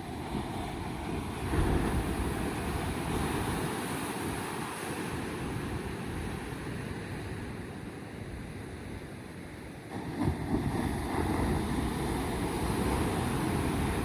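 Rough sea breaking against a rocky shore, with strong wind on the microphone. The surf surges up about a second and a half in and again about ten seconds in.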